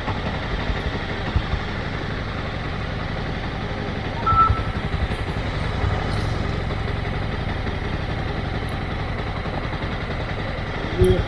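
Motorcycle engine running steadily with a low rumble, heard from on board, with a short high beep about four seconds in.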